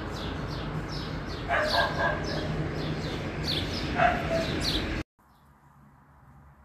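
Repeated high, falling bird chirps over a steady outdoor hum, with two louder, lower calls about one and a half and four seconds in. The sound cuts off abruptly about five seconds in.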